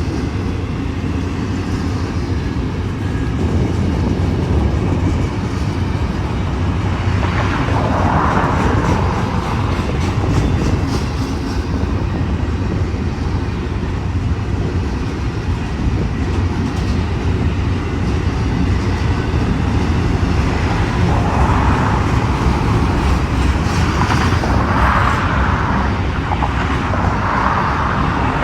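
Union Pacific intermodal freight train's cars rolling past, a steady loud rumble of wheels on rail with a few brief swells of higher noise.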